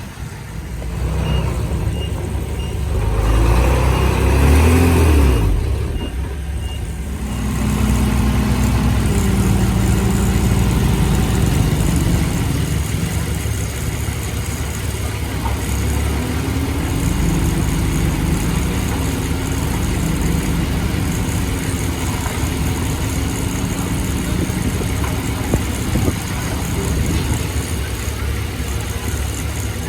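Heavy earthmoving machine's diesel engine working, its pitch rising and falling with load. Through the first several seconds a louder surge comes with a row of short high beeps about twice a second.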